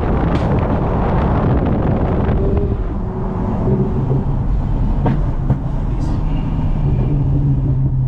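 Toyota Mark X's V6 with a modified exhaust running on the move, with wind and road noise. The rush of noise eases about two and a half seconds in and a steady low engine drone holds.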